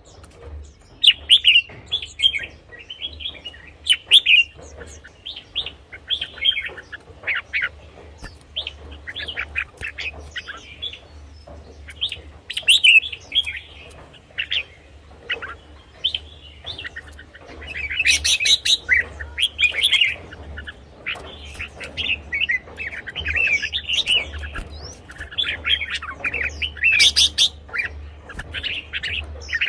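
Red-whiskered bulbul singing: short, quick warbled phrases repeated one after another with brief gaps, over a faint steady low hum.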